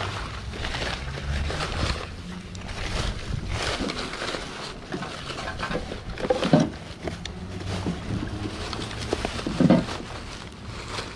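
Plastic trash bag and paper rustling and crinkling as gloved hands dig through the contents, with two louder thumps about six and a half and nearly ten seconds in.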